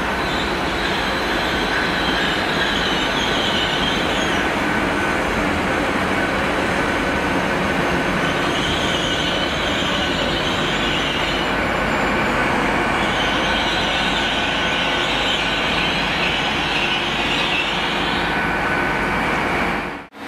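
Great Western Railway Hitachi Class 800 intercity train running along the platform, a steady rumble of wheels on rail with bouts of high-pitched wheel squeal and a thin steady whine. The sound cuts off abruptly near the end.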